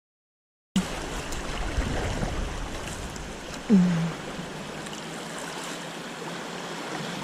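Steady rushing of flowing river water, starting after about a second of silence. A short falling tone stands out about halfway through.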